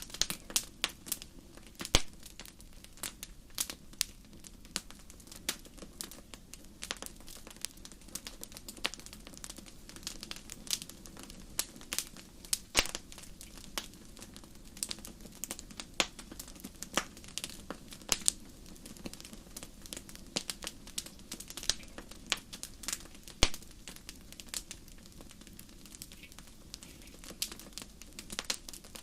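Wood fire crackling in a fireplace: irregular sharp pops and snaps, several a second with an occasional louder pop, over a steady low rumble of the flames.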